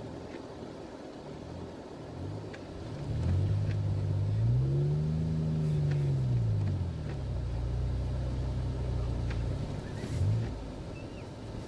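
A vehicle engine revs up and back down, its pitch rising to a peak about five seconds in and then falling back. It keeps running steadily after that, with a brief rise near the end.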